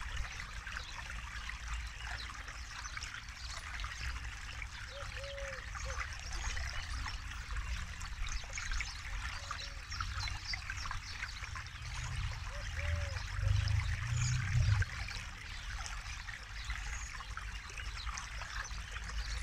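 Forest river water trickling and flowing steadily. A few short, low-pitched bird calls come and go. A low rumble swells for a few seconds about two-thirds of the way through.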